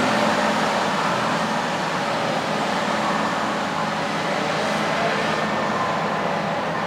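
Heavy farm machinery running: a steady engine and machine noise with faint tones that drift slightly in pitch.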